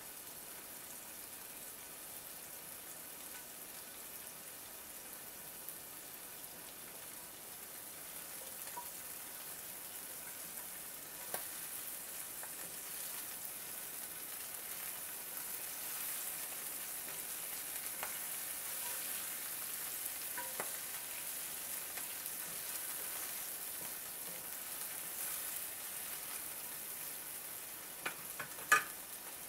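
Shrimp sizzling steadily in hot oil in a Lodge cast iron skillet. The sizzle gets a little louder from about ten seconds in, with a few light taps and one sharp knock near the end.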